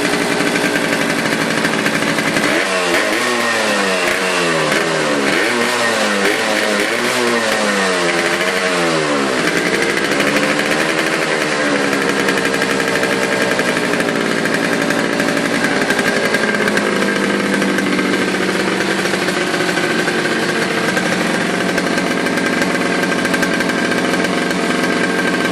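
Exhaust of a Yamaha RX 115's two-stroke single-cylinder engine running. It is blipped in a quick series of revs, rising and falling about once a second, from about two to nine seconds in. After one slower rev it settles back to a steady idle.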